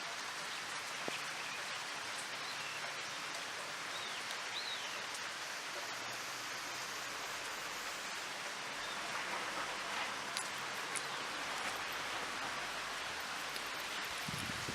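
Steady rain falling and pattering on surfaces, with a few scattered drips.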